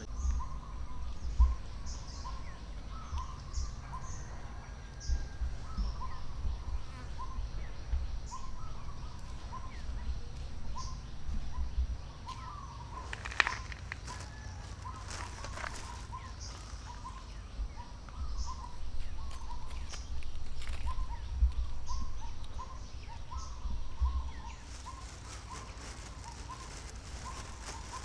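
Outdoor ambience: a bird repeating a short, clipped call over and over, about one or two notes a second, with scattered higher chirps. Uneven low rumbling sits underneath.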